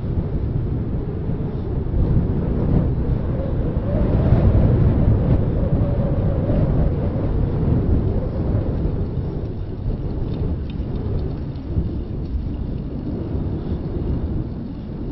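Wind buffeting the microphone of a handheld recorder on a moving bicycle: a steady, loud low rumble that swells about four seconds in and eases off again after.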